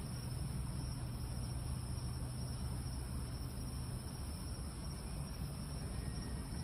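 Steady night ambience: a continuous high insect drone over a low, even rumble.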